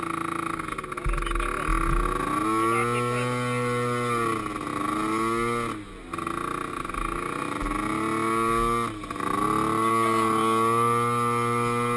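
Small youth ATV engine revving up and down, its pitch rising, holding and falling over several pulls, with the throttle chopped briefly about six and nine seconds in.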